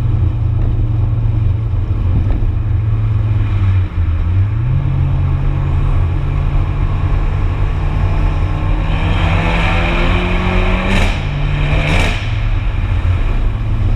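Abarth 695 Biposto's turbocharged 1.4-litre four-cylinder engine and exhaust under way. The engine runs steadily, then its pitch climbs slowly as the car accelerates. Near the end it shifts up twice quickly, with a sharp burst of noise at each shift.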